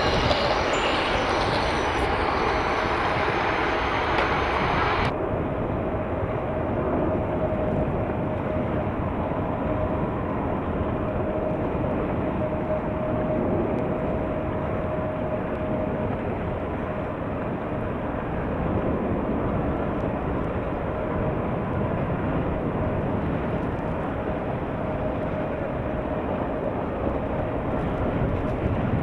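Jet airliner engines running: a steady rushing roar with a faint constant whine.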